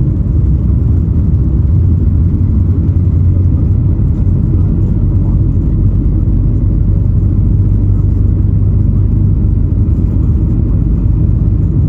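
Steady, loud low rumble of a Boeing 737 MAX 8 jet airliner in motion, heard from inside the cabin.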